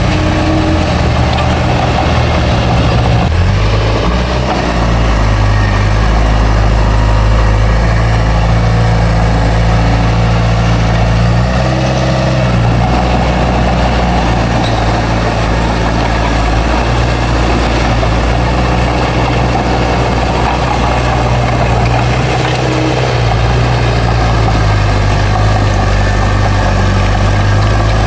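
Heavy earthmoving equipment's diesel engine running steadily, its pitch shifting slightly a few times as the load or throttle changes.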